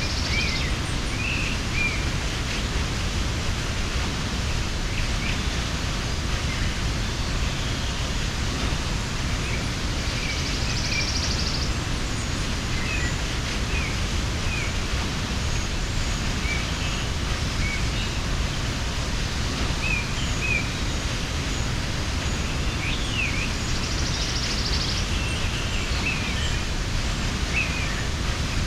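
Steady rushing of a mountain waterfall, with small birds chirping now and then above it. A high, rapid trill comes in three times: at the start, about eleven seconds in, and near the end.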